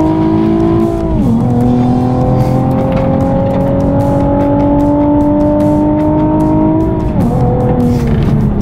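Nissan 370Z's 3.7-litre V6 heard from inside the cabin at speed on track, its pitch climbing slowly under acceleration and dropping sharply at a gear change about a second in and again near the end.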